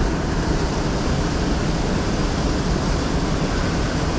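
Steady rushing of river water flowing through a current, an even noise without distinct events.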